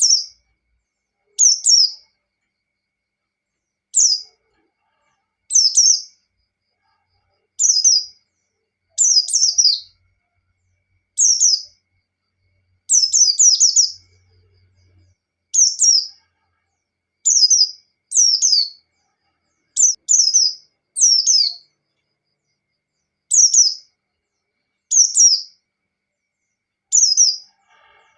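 White-eye (pleci) singing its fast 'ngalas' song in short, high phrases of rapid falling notes, each under a second, about one every second and a half with clean silence between.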